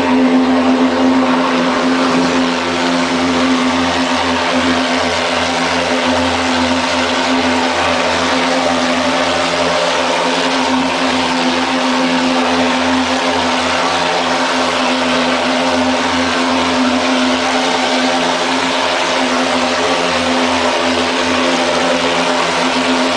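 Mosquito fogging truck spraying insecticide smoke, its fogging machine running with a loud, steady drone that holds one pitch throughout.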